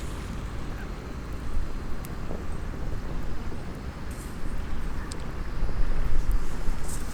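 Wind buffeting the microphone in a steady low rumble, with a few faint sharp crackles from a small campfire, one about two seconds in and another about five seconds in.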